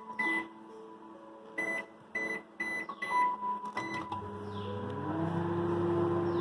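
Convection microwave oven: a series of short keypad beeps as the grill-with-convection cooking time is set, then the oven starts and runs with a steady hum, its motor tone rising and settling as it comes up to speed.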